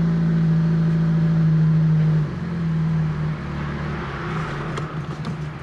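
Fiat Panda 4x4 Sisley's petrol engine running on choke just after a cold start, at raised revs. About two seconds in, the revs and loudness drop as the choke and throttle are eased back, and the engine runs lower and less steadily, with a few faint clicks near the end.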